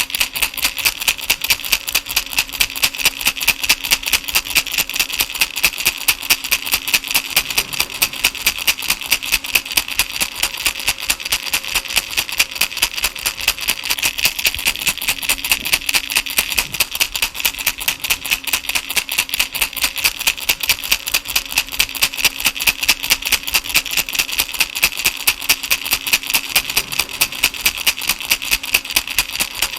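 Baby rattle shaken steadily and evenly, about four shakes a second, each stroke a short bright rattle of small beads.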